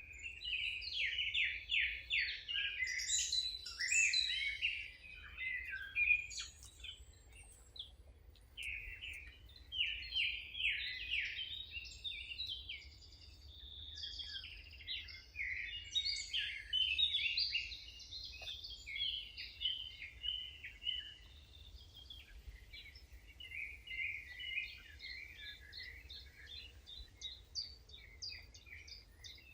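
Several songbirds singing together, a busy chorus of overlapping chirps and trills that thins out after about twenty seconds, over a faint low rumble.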